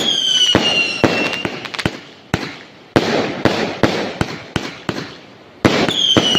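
Fireworks going off: an irregular string of sharp bangs over crackling, with a high whistle that falls slightly in pitch at the start and again near the end.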